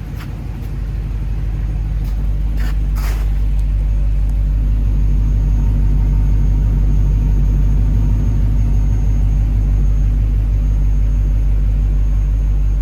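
1959 Cadillac V8 idling shortly after a cold start, heard at its exhaust: a steady low rumble that grows louder over the first few seconds, then holds even. A few short clicks in the first three seconds.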